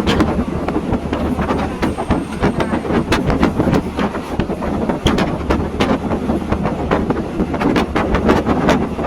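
Passenger train running, heard on board: a steady low rumble of wheels on track with many sharp, irregular clicks and knocks of the wheels and carriage.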